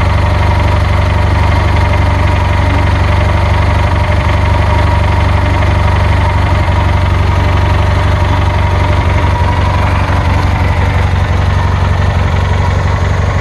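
Kohler 20 hp Magnum engine on a riding lawnmower running steadily at idle, back running after a fresh tank of gas.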